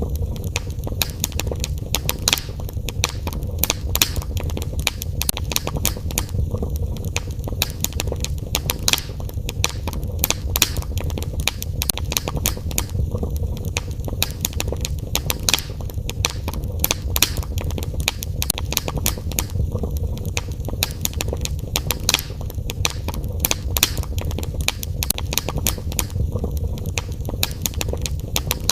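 Wood fire burning in a fireplace, with frequent irregular crackles and pops over a steady low rumble.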